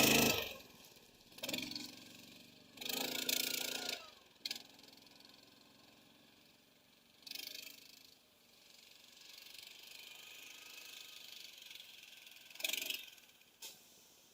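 Small engine of a motorized snow-towing unit revving in several short bursts, with quieter stretches and a mechanical rattle between.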